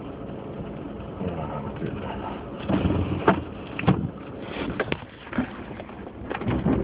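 Car moving slowly on a snowy road, heard from inside the cabin: steady road and tyre noise, with a few sharp knocks between about three and five seconds in.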